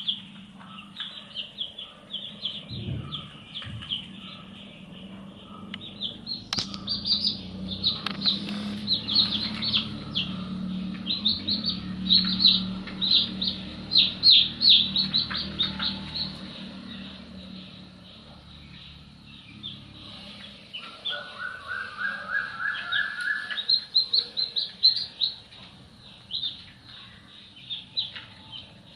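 Baby chicks peeping: many short, high peeps overlapping in a dense chorus, busiest in the middle and again near the end. About three-quarters through, a short run of lower notes rises in pitch.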